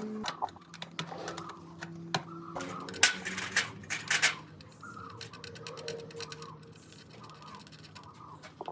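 Scattered clicks and clinks of tools or small parts being handled, with two louder clattering scrapes about three and four seconds in, over a faint steady hum.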